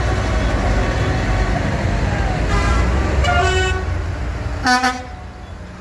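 Tractor engines running with a steady low rumble while vehicle horns toot several times at different pitches, the loudest a short blast near the end.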